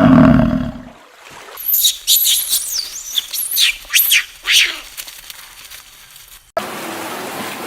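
The tail of a cow's low moo, then a quick series of shrill, high squeals, each sweeping downward in pitch, over a couple of seconds. Near the end the sound cuts abruptly to a steady outdoor background hiss.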